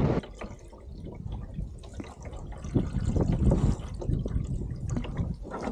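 Water lapping and splashing, a string of small irregular splashes and drips over a low rumble.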